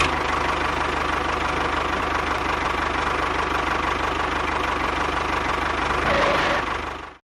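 Small engine idling steadily with a fast, even knocking beat, cut off suddenly at the end.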